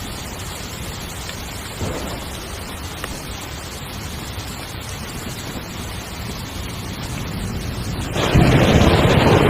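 Heavy rain drumming steadily on a tent, building slowly and then suddenly getting much louder about eight seconds in as a heavier downpour hits.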